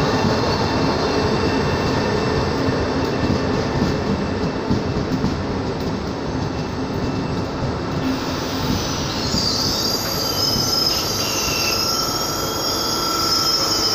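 Italo AGV high-speed train rolling slowly past on the track beside the platform as it pulls into the station, a continuous wheel-on-rail rumble. From about eight seconds in, a high squeal joins it as the train slows.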